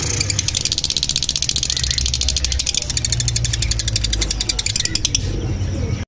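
A caged bird calling in a rapid, even, high-pitched trill of about a dozen notes a second, stopping shortly before the end. A steady low rumble runs underneath.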